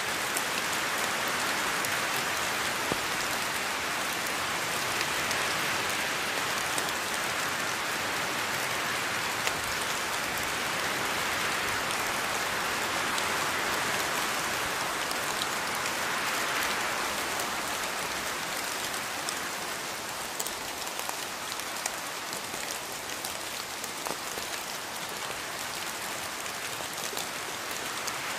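Steady rain falling on foliage, a continuous hiss with scattered drop ticks, easing slightly in the second half.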